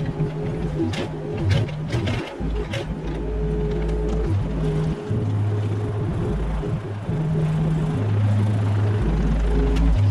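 Mini excavator running under changing load, its engine pitch shifting as the hydraulics work, with a few sharp knocks and scrapes in the first three seconds as the bucket handles debris.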